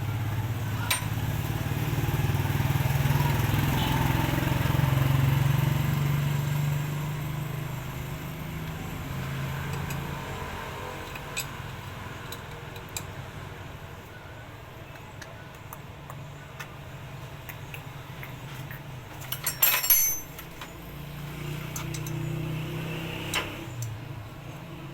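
An engine running, louder in the first seven seconds, then fading and swelling again near the end. A short cluster of sharp metallic clinks and knocks comes about twenty seconds in.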